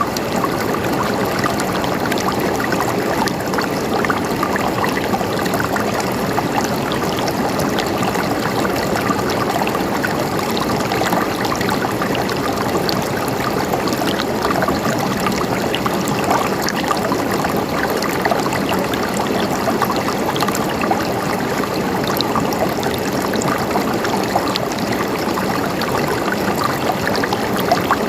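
A river's water flowing and splashing steadily over rocks, a continuous rushing babble with small splashes flecked through it.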